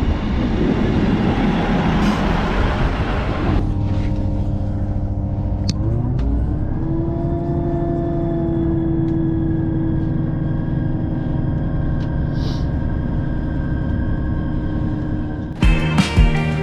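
A train at a station: a loud rushing rumble for the first few seconds, then a steady engine hum that rises in pitch about six seconds in and holds there. Music comes in near the end.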